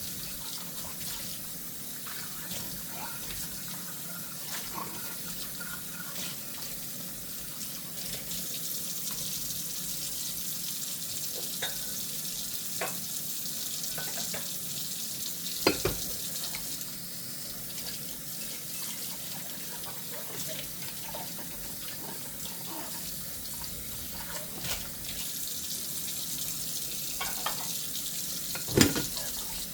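Kitchen tap running into a sink while dishes are washed by hand, with scattered light clinks of dishware. Two louder knocks stand out, one about halfway through and one near the end.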